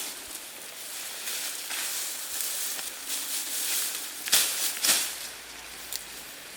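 Rustling and scraping noises, with two sharp crunches a little after four seconds in.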